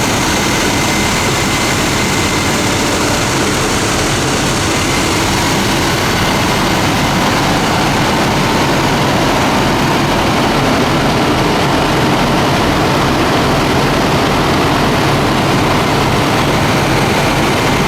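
Fire engine's engine running steadily and loudly.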